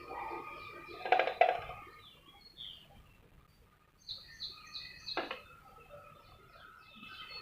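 Small pet birds chirping, with many short high notes. There is a louder harsh burst about a second in and a sharp click a little past the middle.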